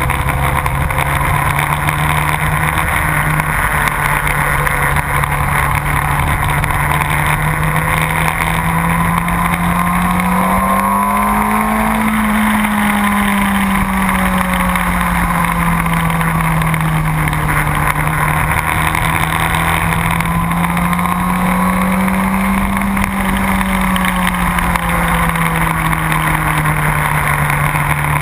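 Motorcycle engine running at speed over a steady rush of wind noise; the engine note climbs and falls back twice, about a third and three-quarters of the way through.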